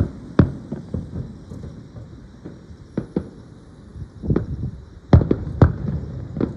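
Aerial fireworks shells bursting: an irregular run of sharp bangs and deeper booms over a low rumble, the two loudest bangs close together near the end.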